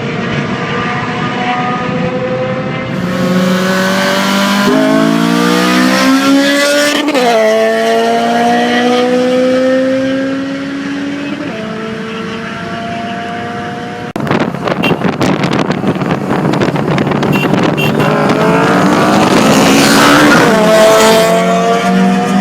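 Honda K20 four-cylinder engine revving hard under acceleration, its pitch climbing and then dropping sharply at gear changes. About two-thirds of the way in the sound cuts to another run with a rougher, noisier exhaust note, and the revs climb again near the end.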